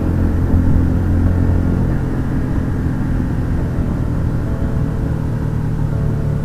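Motorcycle engine running steadily under way, with a low rumble.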